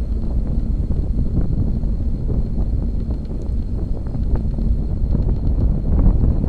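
Wind buffeting the microphone while riding a bicycle: a loud, steady low rumble, with faint small ticks and rattles scattered through it.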